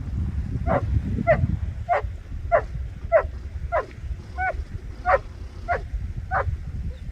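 A flat-coated retriever barking about ten times in a steady rhythm, roughly one and a half barks a second, over a low rumble of wind on the microphone.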